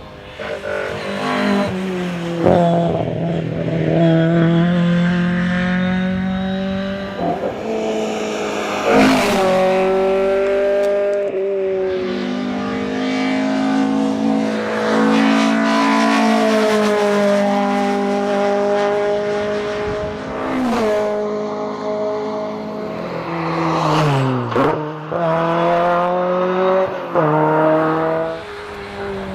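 Fiat 131 Abarth Rallye's twin-cam four-cylinder rally engine under hard acceleration, its pitch climbing through each gear and dropping sharply at every gear change, several times over. Near the end the pitch falls steeply as the driver lifts off, then climbs again.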